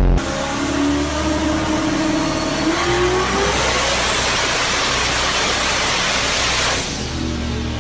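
Car engine making a full-throttle dyno pull, its pitch climbing steadily for about three seconds into a loud, dense exhaust sound at high revs. The sound drops off about seven seconds in as the throttle is let off.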